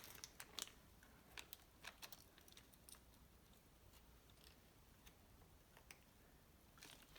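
Near silence: room tone with a few faint, scattered clicks and taps, most of them in the first two seconds.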